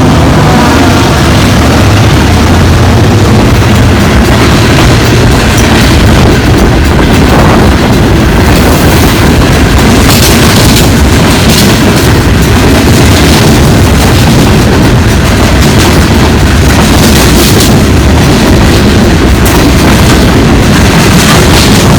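Train passing close by: a loud, steady rumble with a rattle of wheels and cars running over the rails.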